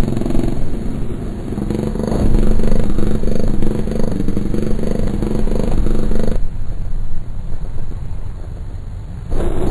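Droning noise-music soundtrack: a dense low rumble with steady held tones. About six seconds in, the tones drop away to leave only the rumble, and they return near the end.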